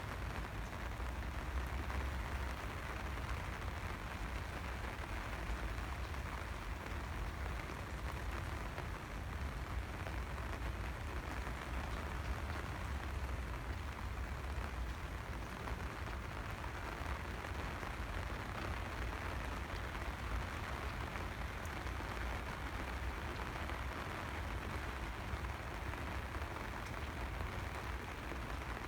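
Steady rain falling, an even hiss with no breaks, over a constant low rumble.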